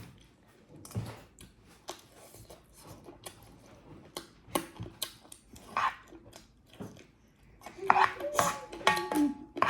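Close-miked eating sounds: scattered wet mouth clicks and smacks of chewing a mouthful of rice and curry. Near the end, a voice hums with held notes.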